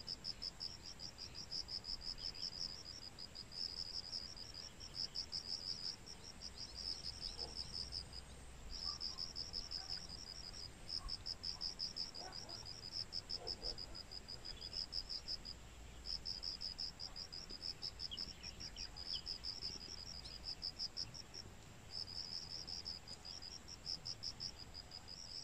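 Insects singing: a high, rapidly pulsed chirping in bouts of one to two seconds, repeating with short gaps.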